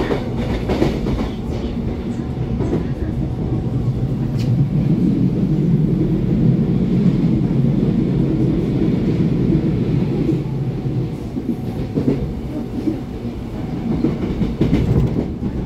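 Running noise inside the cabin of a Taiwan Railways EMU700-series electric commuter train under way: a steady rumble of wheels on rail, swelling through the middle, with a few sharp clicks from the track.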